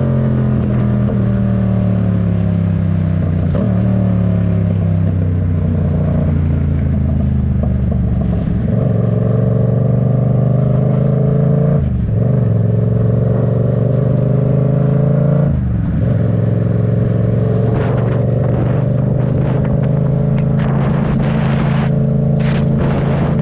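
Yamaha MT-07's parallel-twin engine running under way, its pitch gliding with road speed and stepping at several gear changes.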